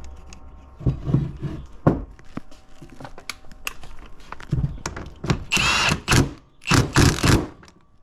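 Metal transmission parts being handled and fitted by hand: scattered clicks, clinks and knocks, then two louder scraping, rattling bursts with a metallic ring, about five and a half and seven seconds in.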